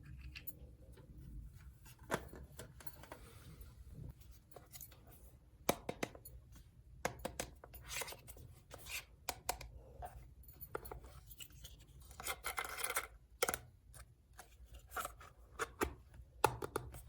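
Plastic toy pieces and packaging being handled: scattered light clicks, taps and short scrapes and rustles, with a denser patch of rustling about twelve seconds in.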